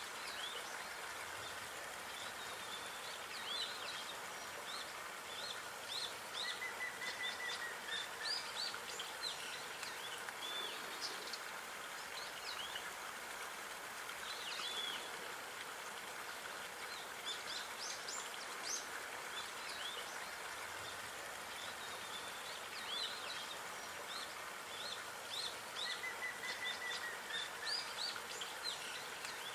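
Small songbirds chirping and singing in many short high calls, with a brief trill twice, over a steady outdoor hiss.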